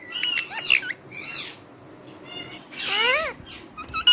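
Talking parrot calling in a series of short, high-pitched chattering squawks, with a longer rising-then-falling call about three seconds in.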